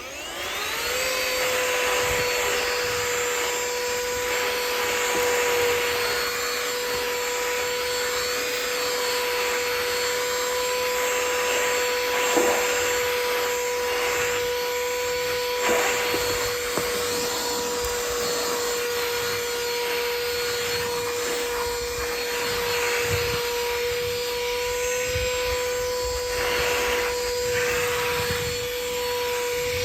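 Cordless handheld vacuum switched on, its motor spinning up within the first second to a steady high whine over the rush of suction air. There are a few short clatters partway through.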